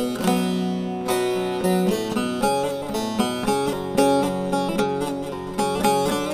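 Instrumental folk music: a plucked string instrument playing a melody of quick, separately plucked notes, with no singing.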